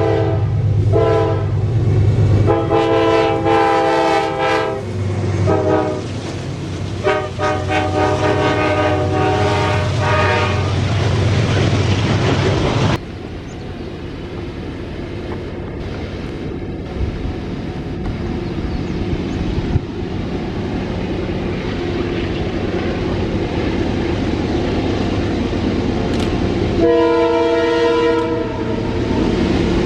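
Nathan K5LA multi-chime air horn on a diesel locomotive sounded in a series of short and long blasts over the engine's low rumble. After a sudden cut about 13 seconds in, a loaded freight train rumbles past on the rails, with one more horn blast near the end.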